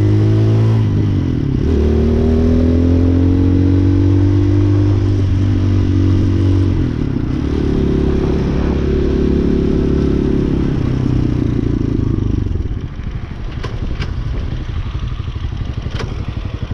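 Hawk 250cc motorcycle engine pulling under throttle, its pitch rising twice as it accelerates and then holding steady. About three-quarters of the way through it drops to a lower, pulsing off-throttle run, with a few sharp clicks near the end.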